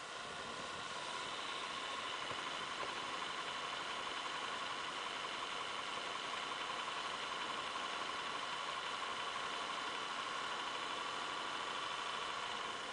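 Acer Aspire 5755G notebook's cooling fan running at high speed, a steady whine over a rush of air. It gets louder at the start and drops away near the end. The owner takes the noise for a fault, too loud and tied to heat.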